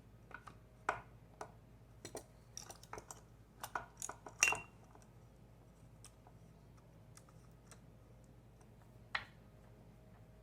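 A run of light clicks and clinks of small hard objects being handled, most of them in the first half. The loudest, about four and a half seconds in, rings briefly like struck metal, and one more click comes near the end.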